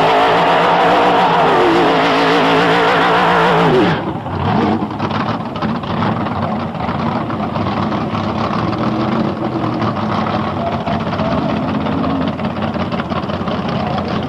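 Hot-rodded 1984 GMC S15 pickup's engine revving hard, with the pitch wavering and then falling away about four seconds in. It then runs on with a rough, uneven rumble.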